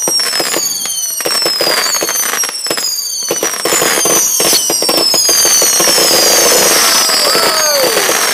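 Aerial fireworks going off in a dense run of bangs and crackles, with many overlapping whistles that fall slowly in pitch.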